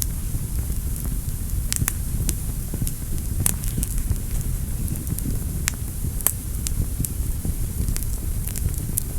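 Wood fire burning in a fireplace: a steady low rumble of flames with irregular sharp crackles and pops, a dozen or so scattered through.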